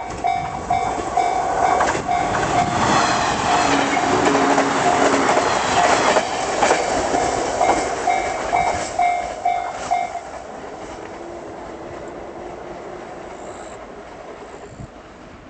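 Level-crossing warning bell ringing about twice a second as the limited express Kinosaki electric train passes over the crossing. The bell stops about two-thirds of the way through, and the train sound fades away.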